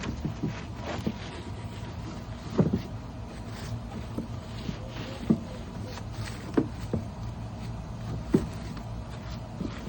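Scrubbing on a plastic wheeled recycling bin: scattered light clicks and a few sharp knocks of the brush against the plastic, over a steady low hum.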